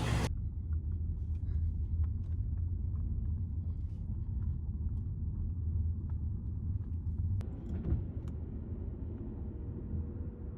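Car on the move: a steady low rumble of engine and road noise, with a few faint clicks and one sharper click about seven seconds in.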